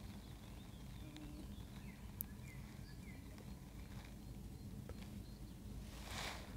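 Faint birdsong of short scattered chirps over a steady low rumble of wind on the microphone, with a single small click about two seconds in and a brief rush of noise near the end.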